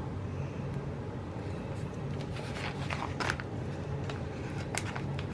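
Light rustling and taps of planner stickers being peeled and pressed onto paper pages, a few short crinkles in the middle and one near the end, over a steady low hum.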